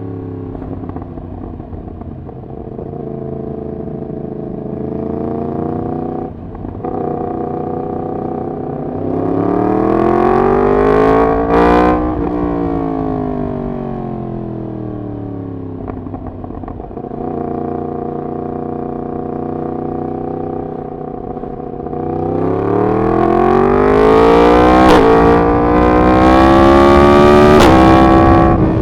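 Yamaha MT-10's crossplane inline-four running through a decat full exhaust system under way. The engine note climbs under acceleration, peaks and falls away, then holds steady. Near the end it pulls hard again, with two quick dips in pitch like upshifts, before easing off.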